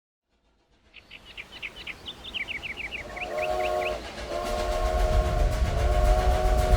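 Steam-train sound effect opening a song track: a run of short high chirps, then a steam locomotive's chord whistle blowing in long blasts from about three seconds in, over a low rumble of the train that grows louder.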